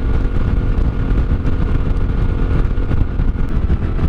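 Yamaha Ténéré 700's parallel-twin engine running steadily at cruising speed, under a loud, fluttering low rumble of wind noise.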